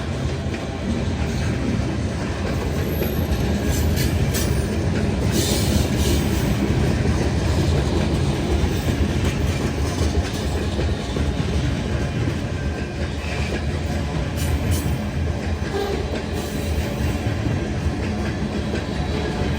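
Freight train cars rolling past: a steady low rumble with wheels clattering over the rail, and a few brief higher metallic squeals or clanks.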